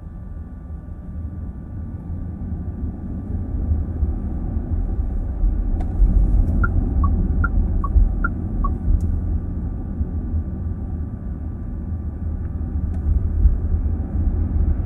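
Car cabin sound while driving: low road and tyre rumble that grows louder over the first several seconds as the car picks up speed, then holds steady. About halfway, six short electronic beeps alternate between two pitches, with a few faint clicks.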